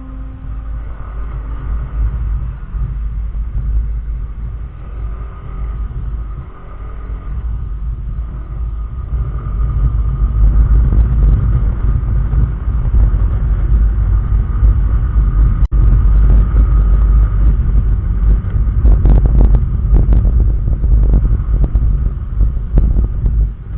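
Wind rumble buffeting a helmet-mounted camera over the running engine of an SYM Joymax Z+ scooter while riding. It grows louder about ten seconds in as the ride picks up.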